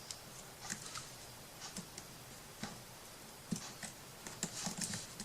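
Faint, irregular light clicks and taps, about ten scattered through a few seconds, from small craft pieces being handled on a work table.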